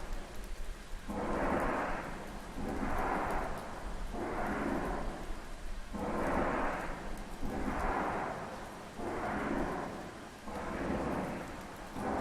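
A rushing noise with no clear pitch that swells and fades in a steady pulse, about eight surges each roughly a second long. It is presented as a strange sound coming from the sky.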